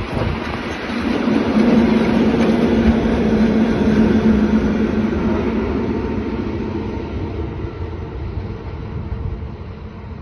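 A train passing on the line: the rumble swells about a second in, with a steady hum through it, then slowly fades as the train moves away.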